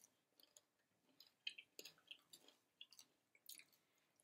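Faint chewing and small mouth clicks of people eating seasoned french fries, heard as scattered short ticks.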